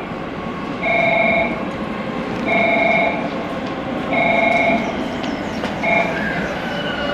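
Electric train at a station platform, its running noise under a repeating electronic tone that sounds three times, about every second and a half, and breaks off short about six seconds in. Near the end a rising, gliding whine begins as the train's traction motors start up.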